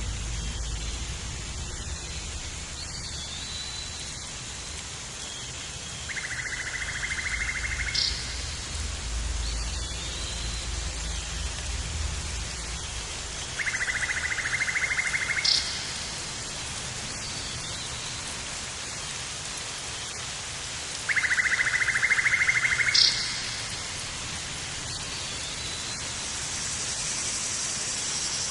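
A buzzy, trilling animal call about two seconds long repeats at even intervals of roughly seven and a half seconds, each ending in a short, higher chirp, over a steady hiss like rain.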